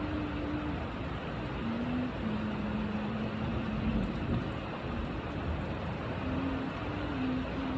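Steady rain and storm noise during a severe thunderstorm, with a faint low hum that steps up and down in pitch.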